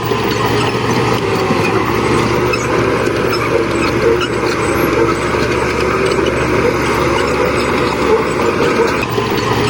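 Heavy earth-moving machinery's diesel engines running steadily.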